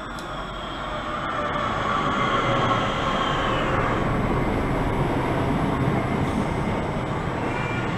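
Southeastern electric multiple-unit train running past along the platform, with a steady rumble of wheels on rails. A whine slides down in pitch over the first four seconds, and the sound grows louder over the first two seconds as the carriages draw level.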